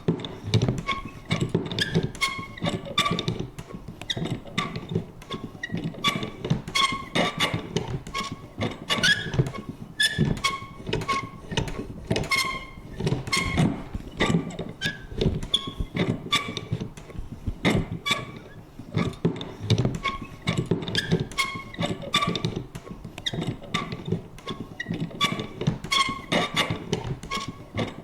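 Vintage paper punch worked over and over: its lever and pivot creak in short squeaks, with irregular clicks and clunks, several a second.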